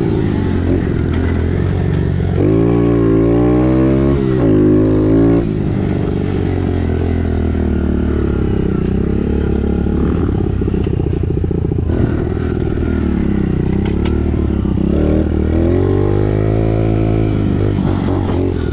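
Dirt bike engine running hard on the track, its pitch climbing and dropping back twice as it revs up and shifts, about two seconds in and again near the end.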